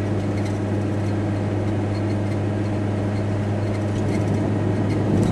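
VW T4 Transporter van heard from inside the cab while driving: a steady low engine drone with road noise.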